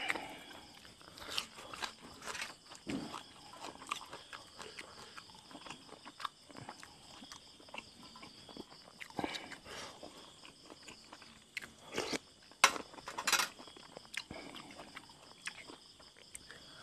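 Close-up eating sounds: irregular chewing and crunching of boiled buffalo skin, which is still slightly crunchy, and raw green onion, with a few louder crunches about twelve to thirteen seconds in.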